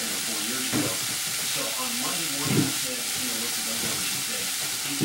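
Diced tofu frying in a skillet with a drop of sesame oil: a steady sizzle, with two louder pops about a second in and past halfway.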